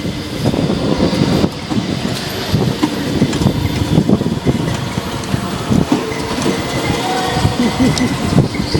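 Go-karts running on a track: loud, continuous engine and rattling chassis noise with irregular clatter throughout.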